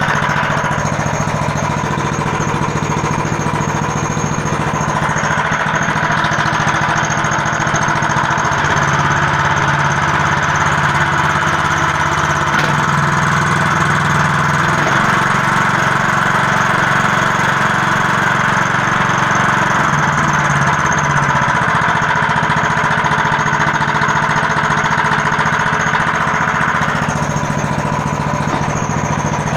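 Small 15 hp engine of a homemade all-terrain vehicle running continuously on its first start. Its note rises about five seconds in and drops back near the end.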